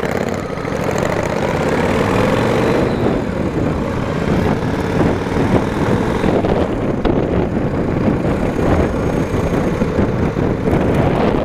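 Motorcycle engine running under way, with wind and road noise on the rider's microphone. The engine note rises over the first few seconds.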